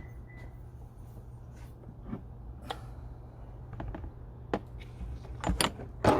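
Scattered short clicks and knocks, with a cluster of louder knocks near the end, over a steady low hum.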